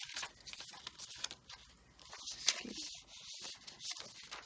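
Paper and card pages of a handmade junk journal being turned by hand: quiet rustling and flicking, with a sharper page flick about two and a half seconds in.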